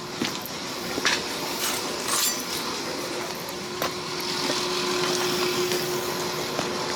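Steady machine-like whooshing noise with a low hum, broken by a few light metallic clinks.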